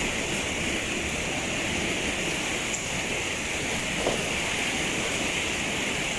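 Torrential rain pouring down in a steady hiss, with one brief tap about four seconds in.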